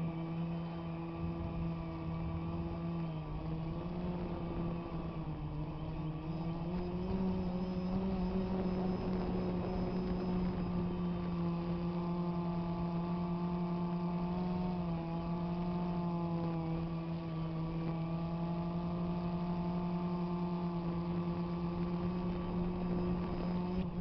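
DJI Phantom quadcopter's motors and propellers running in flight, a steady buzzing whine whose pitch shifts slightly up and down as it manoeuvres. It cuts off suddenly at the end.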